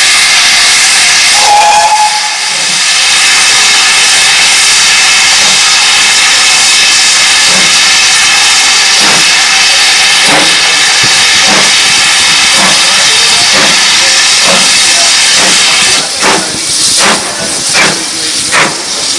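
Steam locomotive letting off a loud, steady hiss of steam, with slow exhaust beats faintly beneath it. About three seconds from the end the hiss stops and the separate puffs of the exhaust carry on at roughly one or two a second as the engine works.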